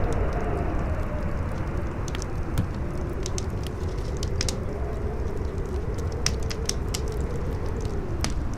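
Campfire crackling with irregular sharp pops over a steady low wind rumble, with a faint howl that rises and falls slowly in pitch.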